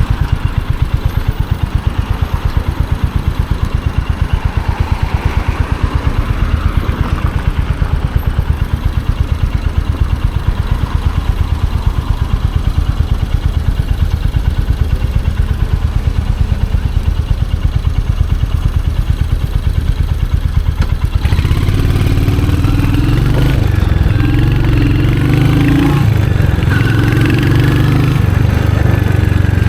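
Royal Enfield Hunter 350's single-cylinder engine idling with an even, pulsing thump. About two-thirds of the way in the bike pulls away and the revs rise and fall as it gathers speed.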